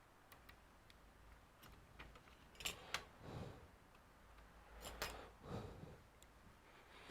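Quiet handling of laptop parts during repair: scattered faint ticks and two pairs of sharp clicks, one pair about three seconds in and another about five seconds in, each followed by a softer dull knock.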